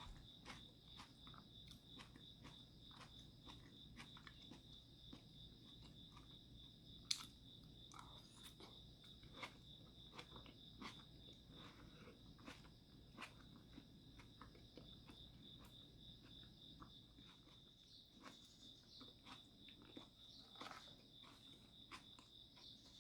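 Faint, steady chirping of a cricket, a high pulsed note repeating several times a second, under soft clicks and chewing from someone eating. There is one sharper click about seven seconds in.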